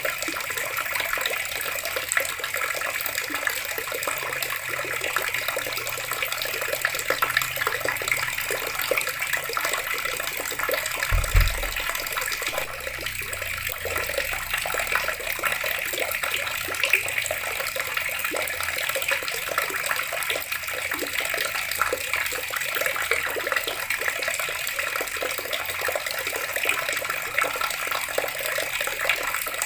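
Water running steadily from a tap and splashing below, with a brief low thud about eleven seconds in.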